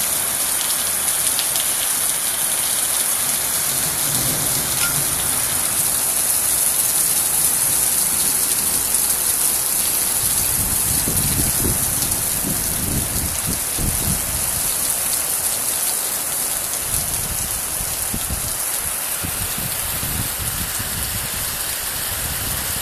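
Steady rain falling, an even hiss with no let-up, with stretches of low rumble in the second half.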